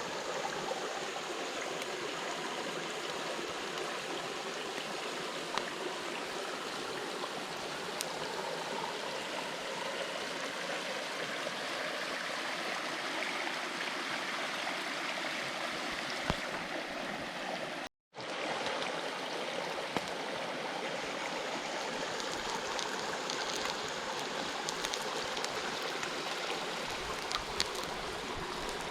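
Mountain stream running steadily over rocks, with a few faint sharp clicks here and there. The sound drops out completely for a moment about two-thirds of the way through.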